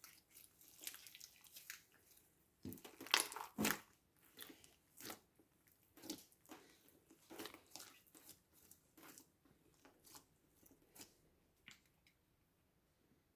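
Slime being squeezed and pressed by hand, giving irregular sticky crackles and crunchy pops, loudest about three seconds in and dying away near the end.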